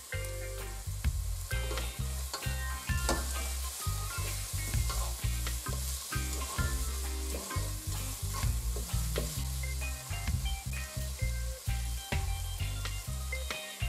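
Chopped onion and tomato sizzling as they fry in oil in a nonstick pot, with a plastic spatula repeatedly stirring and scraping across the bottom.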